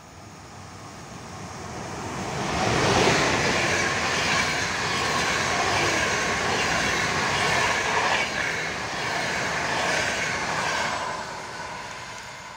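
Passenger train hauled by an EU44 Siemens Taurus electric locomotive passing by: the noise builds as the locomotive draws level about two and a half seconds in, stays steady as the coaches' wheels run over the rails, and fades near the end as the train moves away.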